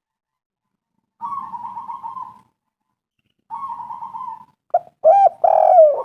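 Spotted dove singing: two rolling, purring trills about a second long each, starting about a second in, then a quick run of short, arched coos near the end.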